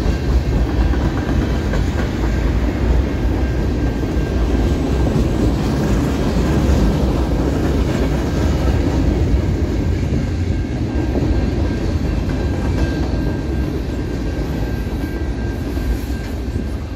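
Freight train cars rolling past at close range: a steady rumble with the clickety-clack of wheels over the rail joints, and a faint high steady whine from the wheels.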